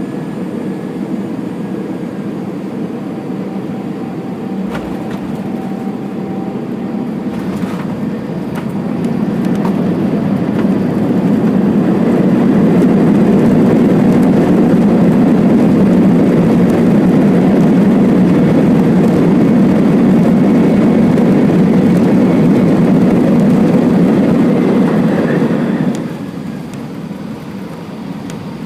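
Airbus A320 engines heard from inside the cabin on the landing rollout: a short knock about eight seconds in, then the engine roar rises and holds loud for about fourteen seconds as reverse thrust is applied, dropping away sharply near the end as it is cancelled.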